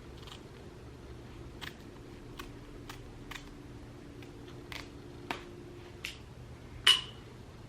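Scissors snipping excess lace from the front of a lace-front wig: about nine short, sharp snips at irregular intervals, the loudest near the end.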